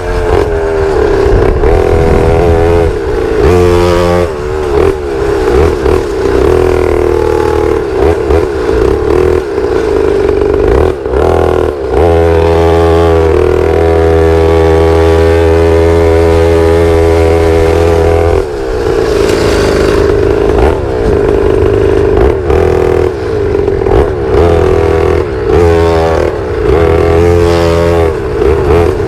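Pit bike engine running under load as it is ridden, its pitch rising and falling over and over. About twelve seconds in, the engine holds a steady high pitch for roughly six seconds, then it returns to revving up and down.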